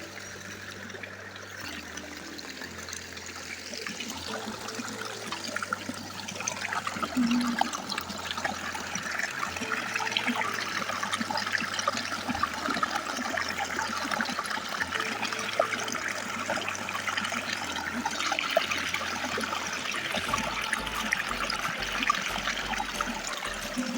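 River water flowing and trickling as a steady rushing hiss, louder after the first few seconds. Soft background music with slow-changing bass notes runs underneath.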